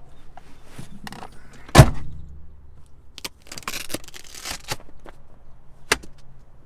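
A door or panel on a 2020 Toyota Sienna minivan being handled and shut with a heavy thunk about two seconds in, with softer rattling and handling noises after it and a sharp click near the end.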